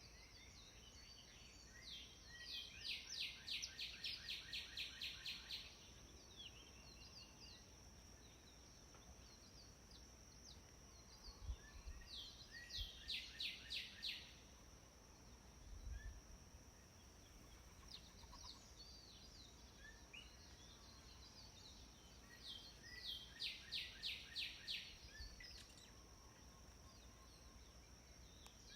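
Wild birds singing: three songs of quickly repeated high notes, each lasting two to three seconds and about ten seconds apart, with scattered chirps between, over a steady faint high-pitched tone.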